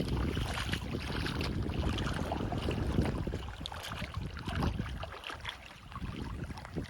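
Sea waves washing onto the beach, with a fizzing crackle of surf and a low rumble of wind on the microphone. Both ease off about halfway through.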